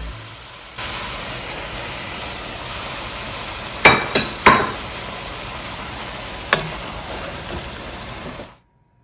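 Food sizzling steadily in a pan, with a few sharp clinks of a utensil against cookware: three close together midway and one more later. The sizzle cuts off abruptly near the end.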